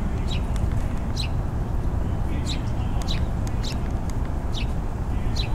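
Small birds chirping, short high calls every second or so, over a steady low rumble.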